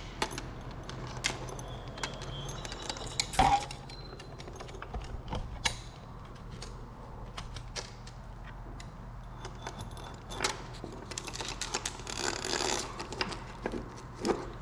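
Small metal fan pull chain clinking and rattling as it is worked through a sash window's pulley and weight pocket, with scattered light clicks and one louder knock a few seconds in.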